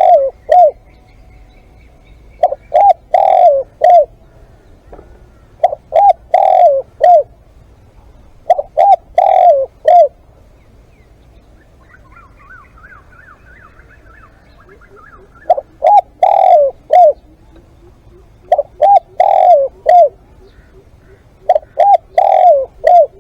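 Spotted dove cooing: a repeated phrase of about four mellow coo notes, given seven times about three seconds apart, with a pause of about five seconds midway.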